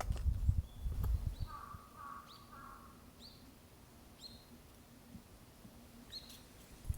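Small birds chirping: short high calls repeated about once a second, with a brief run of lower chirps around two seconds in. Low rumbling noise in the first second.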